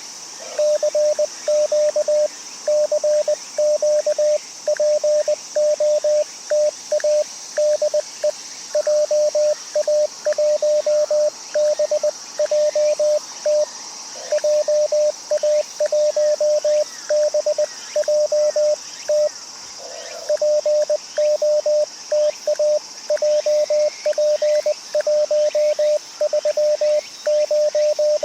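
Morse code (CW) from an amateur radio transceiver: a steady mid-pitched tone keyed in rapid dits and dahs, with short pauses between groups. A slightly lower tone from another signal cuts in briefly twice. Steady high insect buzz behind it.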